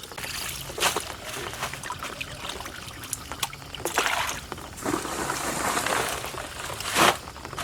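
Water splashing and trickling in a shallow canal, with louder splashes about a second in, around four seconds and a strongest one near the end.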